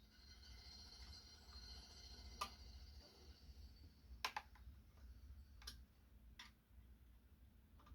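Quiet tool work on a minibike's seat mount: a handful of sharp separate clicks a second or two apart, over a low steady hum.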